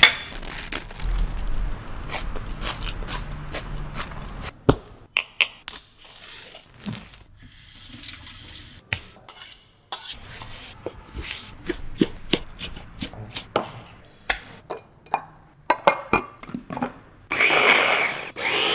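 Kitchen food-preparation sounds: water running at the sink for the first few seconds, then a string of sharp knocks and clatter of dishes and utensils.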